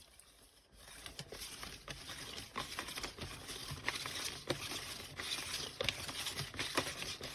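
Plastic twist-style chicken shredder being turned by hand, its teeth tearing cooked chicken: a dense crackling rustle with many small clicks, starting about a second in.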